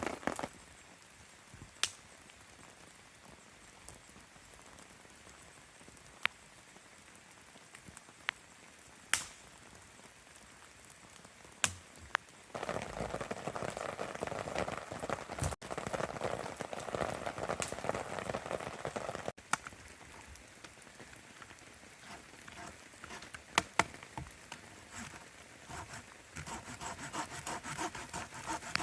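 Steady rain falling, with a few sharp ticks now and then. For several seconds in the middle it is louder, starting and stopping abruptly.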